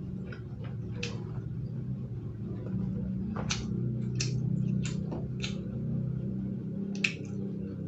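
A person eating and chewing, with irregular wet smacking clicks from the mouth over a steady low hum.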